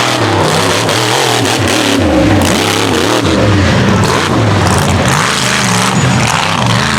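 Mega truck engine racing at full throttle, the revs rising and falling again and again as the driver works the throttle.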